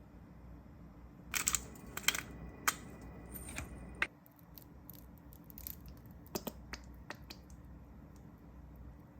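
Close-up handling noises: a quick run of sharp crinkles and clicks in the first half, then a few scattered clicks, over a low steady hum.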